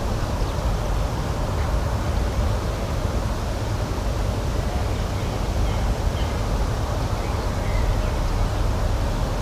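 Outdoor spring nature ambience: a steady, low rushing noise with a few faint, short bird chirps.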